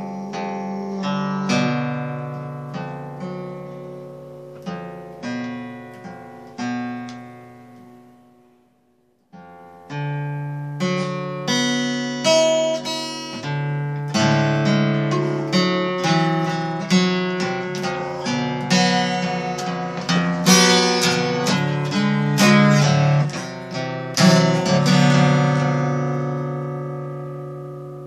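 Acoustic guitar played solo, plucked notes and chords ringing and dying away. The playing fades out about eight seconds in, stops for a moment, then starts again busier and louder.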